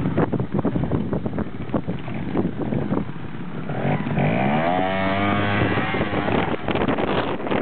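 Trials motorcycle engine popping and blipping at low revs, then revving up with a rising pitch about four seconds in and holding the higher revs briefly before dropping back to uneven blips.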